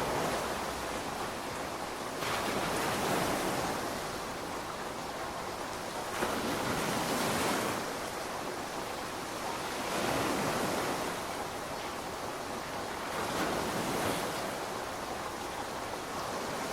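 Steady rainfall: a dense hiss of falling drops that swells and eases about every four seconds.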